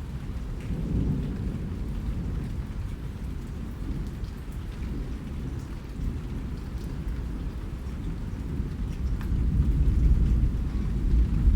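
Rain falling, heard mostly as a deep, dense rumble with a few faint drop ticks above it. It grows louder over the last couple of seconds.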